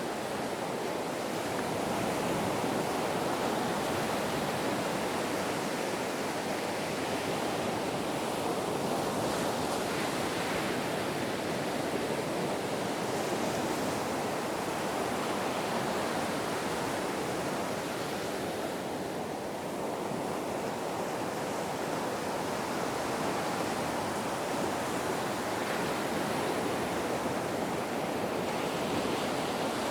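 Ocean surf washing continuously, a steady rushing noise that swells and eases slightly.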